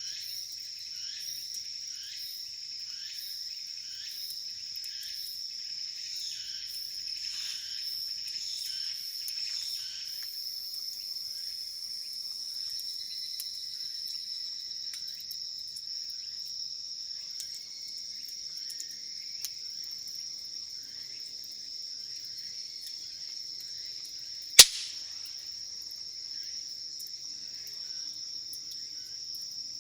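Crickets and other insects singing at dusk: a steady high trill, with a second insect's repeating chirp over the first third. One sharp snap late on.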